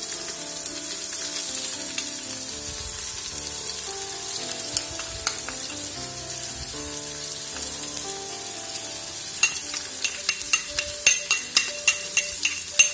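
Onions and diced turnip and squash frying in oil in an electric multicooker's inner pot: a steady sizzle. From about nine seconds in, a metal spoon clicks and scrapes against the pot as the spices are stirred in.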